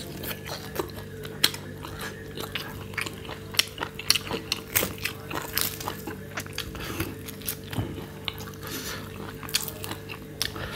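Close-miked mouth sounds of chewing and biting roasted goat rib meat, with many irregular sharp clicks and smacks as the meat is torn from the bone. A faint steady hum sits underneath.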